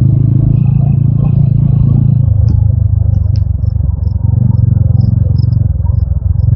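TVS Apache RTR 200 4V single-cylinder motorcycle engine running under way with a steady, low pulsing note. The note drops briefly a little over two seconds in, then picks up again.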